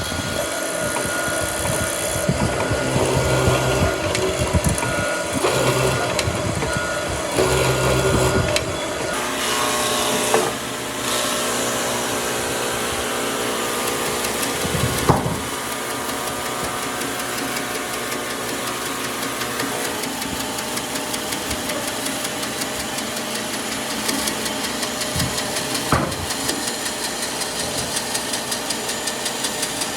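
Woodworking power tools running in a workshop, their pitch and load changing in the first several seconds, then steadier with a fast regular ticking near the end; two sharp knocks about halfway and past two-thirds of the way through.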